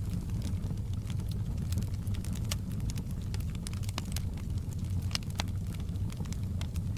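Wood fire crackling in a fireplace: scattered sharp pops and snaps, some louder than others, over a steady low rumble.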